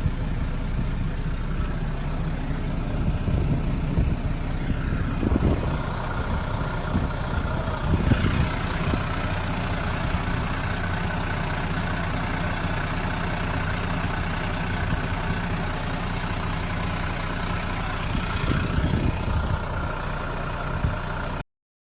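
A large engine running steadily: a low drone with a faint high whine above it, swelling a few times and cutting off suddenly near the end.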